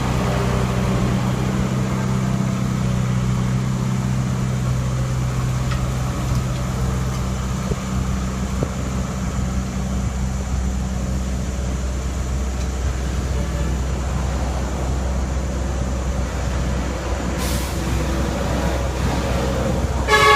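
Heavy diesel engine running steadily at an even speed, with a short hiss about three-quarters of the way through.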